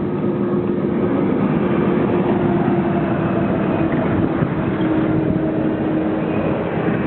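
CCS DC fast charger running during a charging session, its cooling fans and power electronics giving a steady drone with a held hum that drops slightly in pitch about halfway through.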